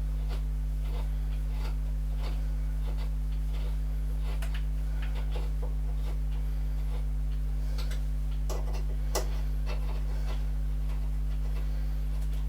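Steady low hum with scattered small clicks and taps of metal parts and tools being handled, one sharper tap about nine seconds in.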